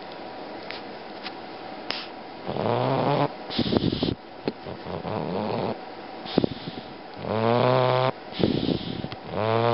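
Bulldog snoring in its sleep: loud, buzzing snores on the in-breath, each followed by a breathy exhale, starting a couple of seconds in and repeating about every three to five seconds.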